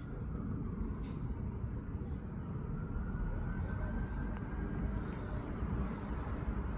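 Steady low outdoor rumble, with two faint high chirps about half a second and a second in.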